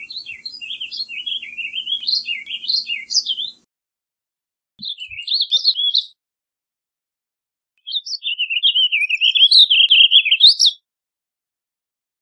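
Warbling vireo singing: three rambling, warbled phrases of quick rising and falling notes. The middle phrase is short, and there are sharp silent gaps between the phrases.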